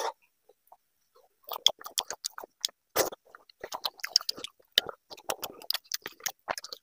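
Close-up chewing of a mouthful of khichdi and fried fish: a fast, irregular run of wet mouth clicks and smacks that starts about a second and a half in.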